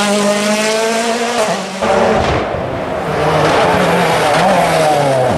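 Rally car engine running at high revs. About two seconds in the sound breaks off abruptly, then the revs climb steadily and drop sharply at a gear change near the end.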